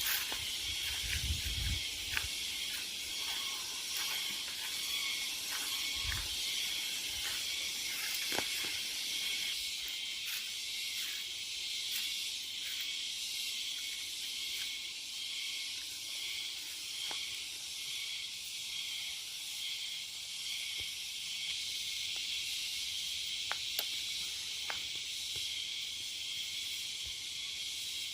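Steady high-pitched hiss that pulses slightly, with a few faint scattered clicks.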